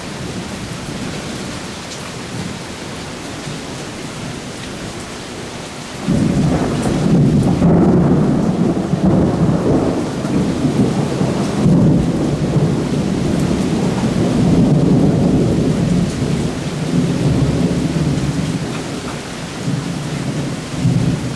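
Heavy rain falling steadily in a thunderstorm. About six seconds in, thunder breaks in suddenly and rumbles on for over ten seconds before easing.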